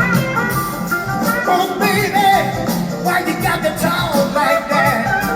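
Live blues-rock band playing, a lead line bending and sliding in pitch over drums and bass.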